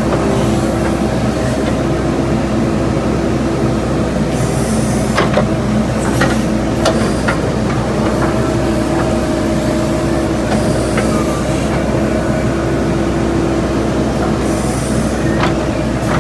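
JCB backhoe loader's diesel engine running steadily while working, with a few sharp metallic clanks and three short bursts of hiss.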